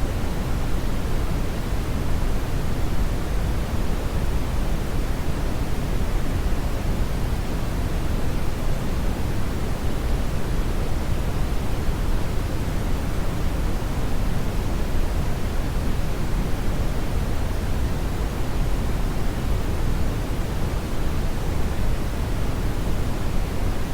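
Steady brown noise: an even, unbroken rumbling hiss, strongest in the low end, with no change in level throughout.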